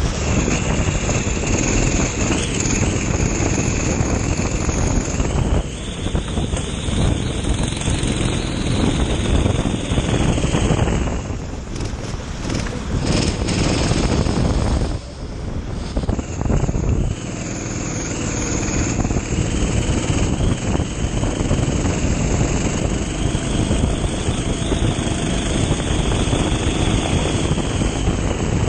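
Kart engine running hard under racing load, with a steady rush of noise over it. It drops back briefly twice around the middle, as if lifting for corners, then builds again.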